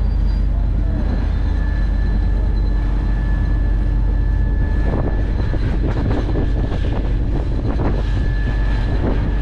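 Heavy road-paving machinery running: a steady low diesel engine hum with a thin high whine held over it. From about halfway, irregular clattering noise joins it.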